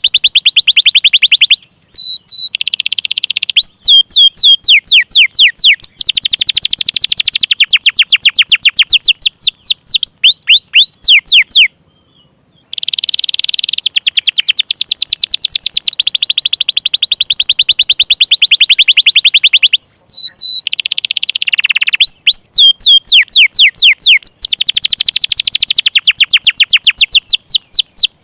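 Domestic canary singing: long runs of fast repeated notes, each run at its own pitch and speed, with a short break near the middle.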